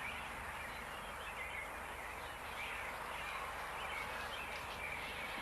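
Quiet outdoor ambience: a steady soft hiss with a few faint, scattered chirps.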